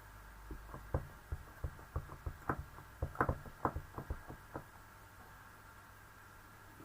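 A run of light, quick knocks, two to four a second, of a rubber stamp on an acrylic block being tapped onto an ink pad and card, stopping about four and a half seconds in.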